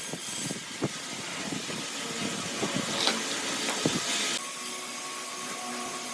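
Woodworking workshop noise: irregular knocks and taps over a steady hiss, the hiss dropping away suddenly about four seconds in.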